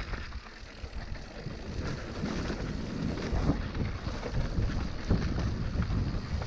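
Wind buffeting the microphone as a low, steady rumble with a rushing noise, getting a little louder about two seconds in.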